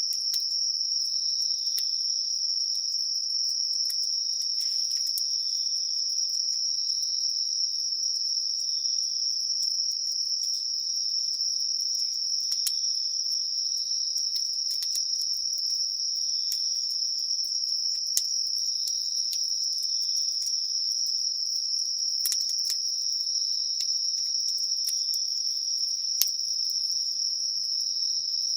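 A chorus of insects singing in one steady, unbroken high-pitched trill, with scattered sharp crackles and pops from a wood campfire, a few louder pops near the middle and toward the end.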